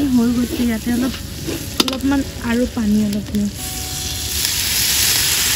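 Onion-and-spice masala sizzling and bubbling in hot oil in a large metal karahi while a spatula stirs it; the sizzle swells louder about halfway through. A voice is heard over it during the first three seconds or so.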